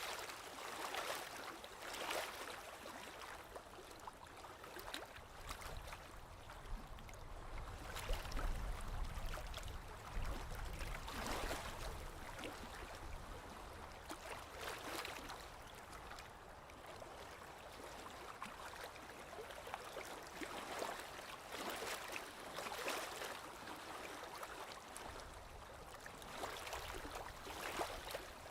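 Small waves lapping on a lake shore, soft irregular washes every couple of seconds, with a low rumble about a third of the way through.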